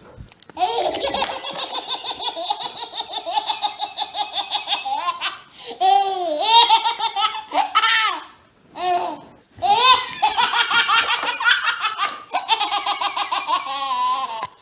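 Baby laughing hard in two long runs of rapid pulsed belly laughs, about five a second, with a few shorter squealing laughs between them around the middle.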